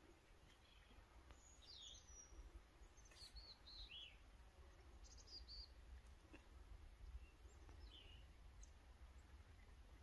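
Faint, scattered short bird chirps, several of them quick high notes sweeping downward, over a low steady rumble.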